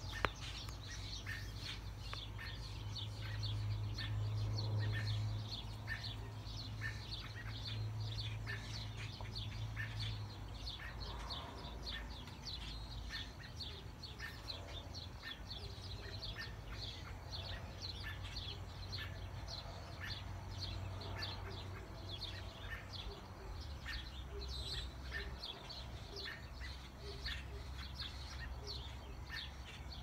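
A chorus of small birds chirping, with many short rapid chirps overlapping. A low steady hum runs under it for roughly the first ten seconds.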